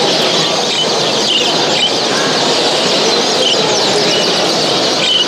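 A dense chorus of many small caged show birds chirping and twittering at once, over the steady din of a large hall.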